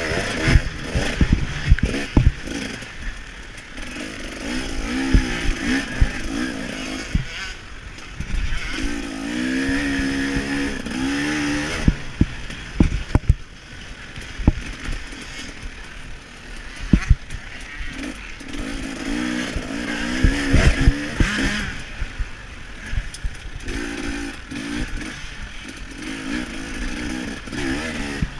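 KTM 300 XC-W two-stroke single-cylinder engine revving up and falling back in repeated surges under race throttle, with frequent sharp knocks and clatter.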